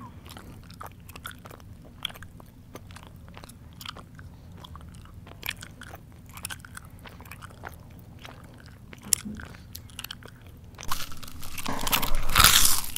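A person chewing with the mouth open, wet clicks and smacks in a loose rhythm, then loud, dense crunching of crisp food near the end.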